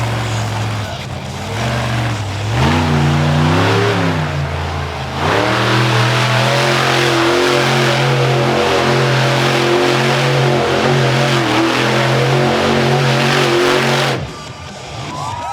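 Monster truck engine revving: it blips up and down, climbs to high revs about five seconds in and holds at full throttle for about nine seconds, then cuts off sharply near the end.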